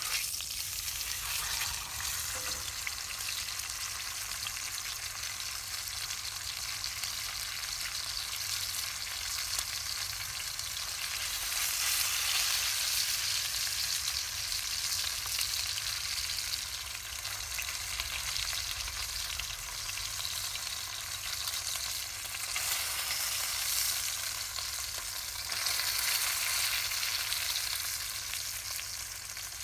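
Pork sizzling over a campfire: a steady, crackling hiss that swells louder twice.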